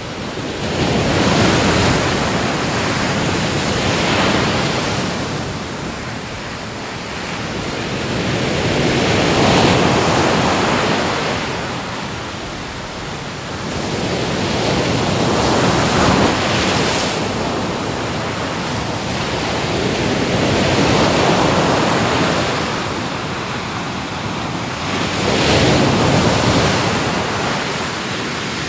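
Ocean waves breaking and washing ashore, the surf swelling and easing in surges every four to six seconds.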